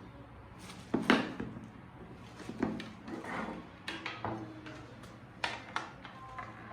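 Irregular knocks and clatter of kitchen items being handled and set down, with a pair of louder knocks about a second in.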